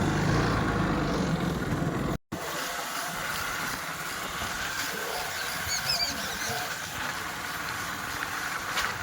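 John Deere tractor engine running with a loud, low sound. It cuts off abruptly about two seconds in, and a steady rushing noise takes over, with a few short high chirps about six seconds in.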